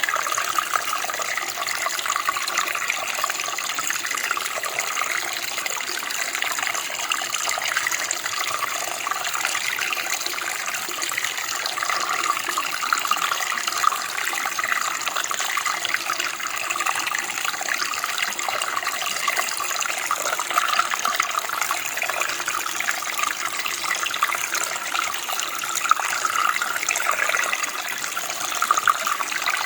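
Running water flowing steadily, a continuous splashing and bubbling rush, like a stream or creek over stones.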